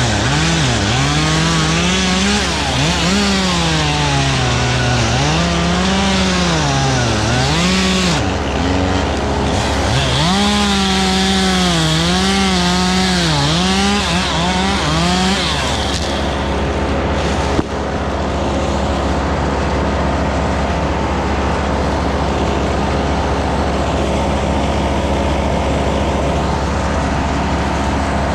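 Chainsaw engine revving up and down over and over, its pitch rising and falling every second or two, until it stops about halfway through. A steady low engine drone runs beneath it throughout and carries on alone afterward, with a single sharp click soon after the saw stops.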